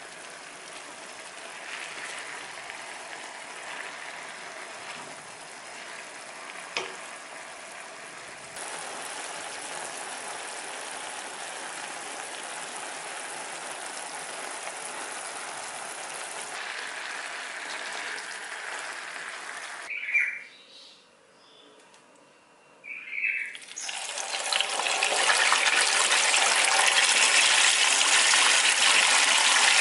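Chicken pieces sizzling and bubbling in hot oil in a pan. After a short quiet break framed by two brief clicks, a pot of water boils hard, a louder and denser bubbling.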